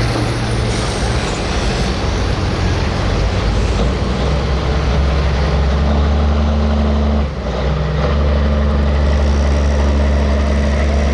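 Super stock diesel pulling truck's engine running hard and loud under load, pitch holding steady, with a brief drop about seven seconds in before it pulls on again.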